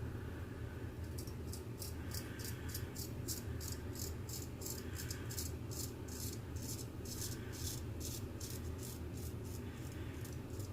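Straight razor scraping through about six days of stubble in quick short strokes, about three to four a second, over a steady low hum.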